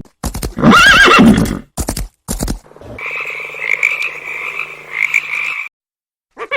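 A horse whinnies, one loud call with a wavering, shaking pitch, followed by two short bursts. Then a different steady, buzzing animal sound runs for about three seconds and stops.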